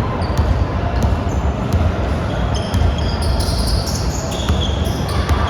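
Basketballs bouncing on an indoor court in repeated thuds, with short high-pitched sneaker squeaks from about two and a half seconds in.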